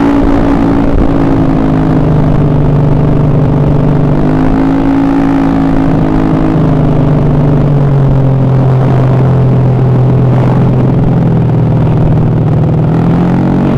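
Honda BeAT carburettor scooter's small single-cylinder four-stroke engine running loud and steady, freshly rebuilt with all-new internals. Its pitch drops a little over a second in, rises about four seconds in, drops again partway through and climbs near the end, following the throttle.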